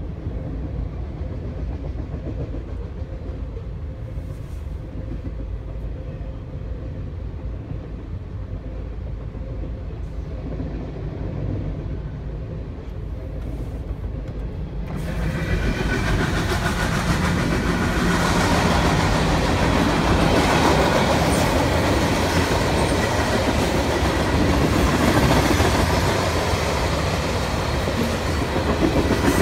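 Freight train rolling past a crossing, heard from inside a car: a steady rumble of the railcars with wheel clickety-clack. About halfway through it turns much louder and brighter.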